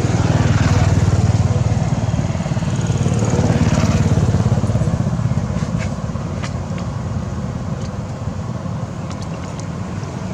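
Motor vehicle engine noise: a steady low engine hum that swells twice in the first half, then eases off.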